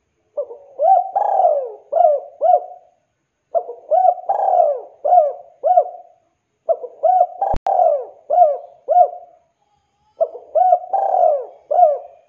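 Spotted dove (tekukur) singing its cooing call: four repeated phrases of about five coos each, with short pauses between. It is a calling song, the kind used to draw other doves to answer.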